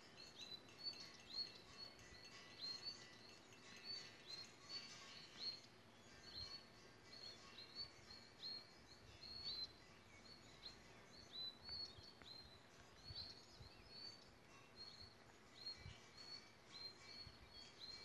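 Faint bird chirps: short high calls repeated about twice a second over near silence.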